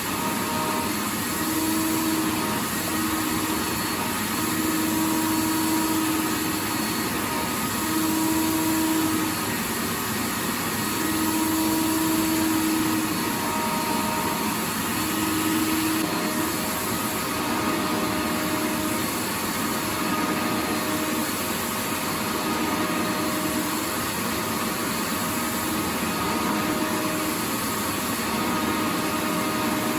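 Vacuum cleaner running continuously: a steady rushing hiss with a faint motor hum that fades in and out every second or two.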